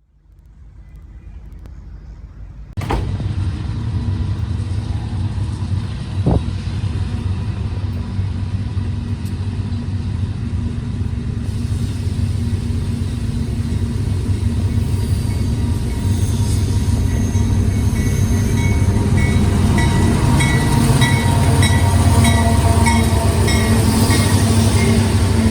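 Union Pacific diesel freight locomotives leading a heavy grain train. A low rumble starts abruptly about three seconds in and grows steadily louder as the train approaches, with a faint repeating high ring in the later seconds.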